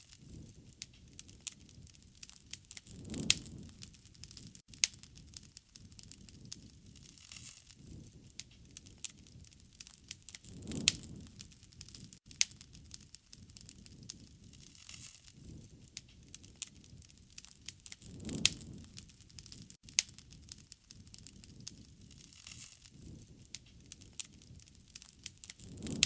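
Wood fire crackling, with many sharp irregular pops and snaps over a low steady hiss, and a soft low rush swelling up about every seven to eight seconds.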